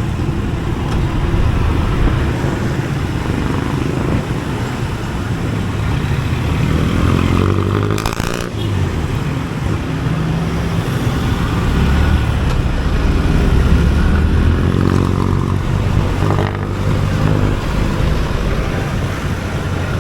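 Motorcycle engine running while riding in traffic, its pitch rising and falling with the throttle, over a steady rush of road and traffic noise.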